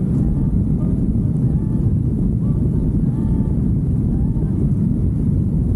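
Steady wind rush on the microphone and low rumble from a motorcycle moving at speed.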